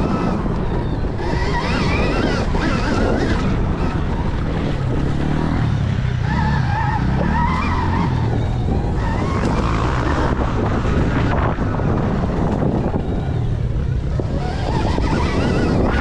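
Stark Varg electric dirt bike being ridden, its electric motor whine rising and falling with the throttle under heavy wind buffeting on the microphone.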